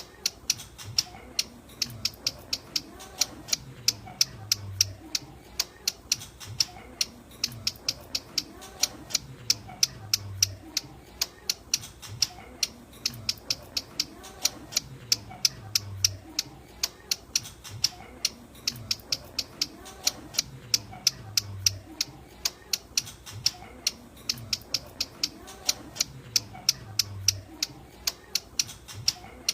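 Ciblek gunung (a prinia) calling: a long, even series of sharp, high, clicking notes, about two to three a second, used as a lure call.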